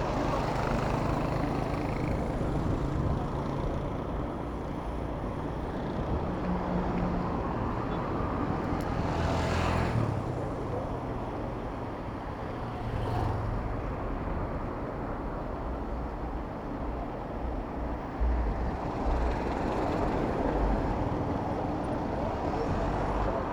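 Road traffic heard from a moving bicycle: motor vehicles running past over a steady rumble, one passing close about ten seconds in and another shortly after.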